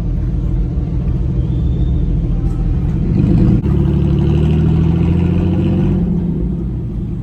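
Truck engine rumbling, then revving about three and a half seconds in, the pitch climbing a little and holding for a couple of seconds before easing off.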